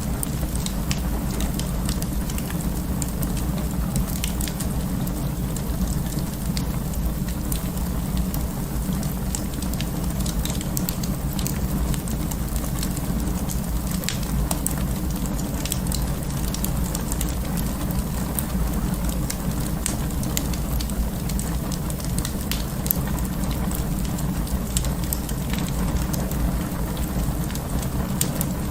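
Wood fire burning in an open fireplace: a steady low rushing under many small, sharp crackles and pops scattered irregularly throughout.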